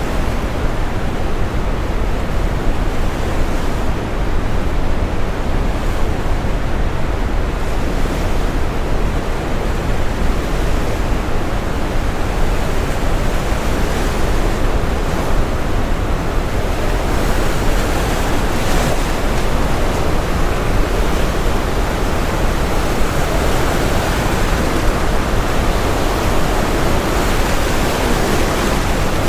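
Steady brown noise mixed with ocean waves washing and breaking. The surf grows fuller and brighter about halfway through.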